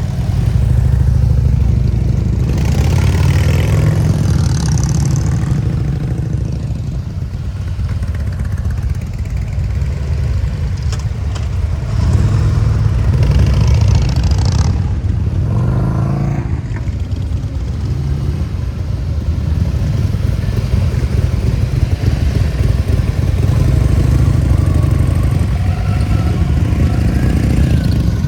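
Harley-Davidson V-twin motorcycle engines running through loud exhausts: a steady low rumble that swells with revs about three seconds in, again from about twelve to sixteen seconds, and near the end.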